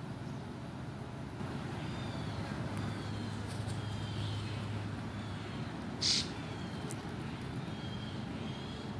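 Outdoor background of steady road traffic, with a vehicle's low hum rising in the middle, while small birds give faint short chirps throughout. One brief, louder, sharp call-like sound comes about six seconds in.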